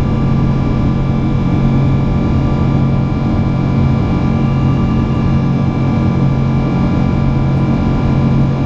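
Boeing 777-200's jet engines running steadily: a continuous rush of noise with a drone of several fixed tones that hold unchanged throughout.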